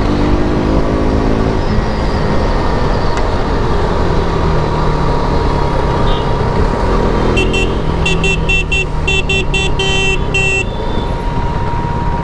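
KTM RC 390 single-cylinder engine on the stock exhaust, running under way with its pitch rising in the first second or so as it accelerates, then holding steady. About seven seconds in, a vehicle horn sounds a rapid string of short toots for about three seconds.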